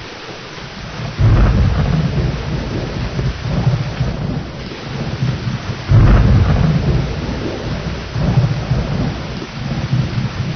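Steady rain with thunder rumbling. A deep roll of thunder breaks in suddenly about a second in, and a louder one about six seconds in, each dying away slowly under the rain.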